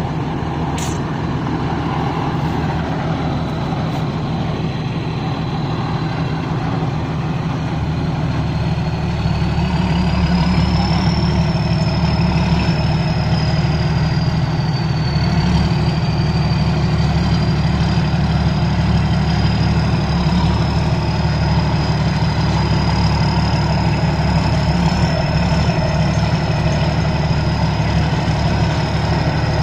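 Thai Seng Chao Phayu 4.0 rice combine harvester running steadily, its engine hum growing louder about nine seconds in. A thin high whine sits over the engine and rises in pitch at the same moment, then holds steady.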